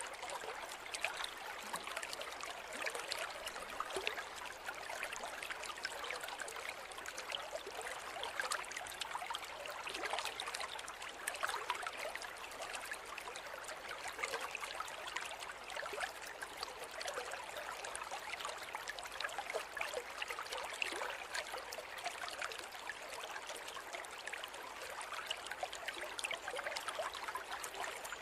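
A river flowing over rocks, a steady rush of water dotted with small splashes and trickles.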